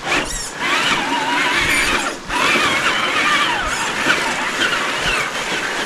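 Traxxas TRX4 RC crawler's electric motor and geared drivetrain whining, the pitch rising and falling as the throttle changes. A few clicks sound over a steady background hiss.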